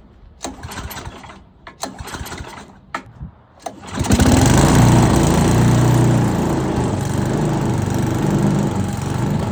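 A few light knocks, then about four seconds in the Troy-Bilt Tomahawk Pro wood chipper's small gas engine starts and runs loudly, its freshly cleaned carburetor back on.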